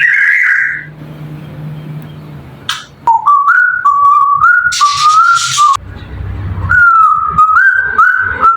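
African grey parrot whistling a short tune of stepped notes, in two phrases with a pause of about a second between them.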